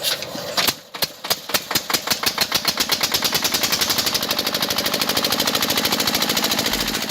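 A small engine of a homemade mini tractor starting and picking up speed: a run of sharp ticks that starts at about two a second and quickens steadily into a fast, even clatter.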